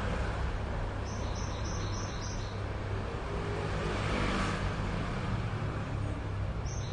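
Steady background hum and hiss, with a quick run of five short, high chirps about a second in and another run starting near the end.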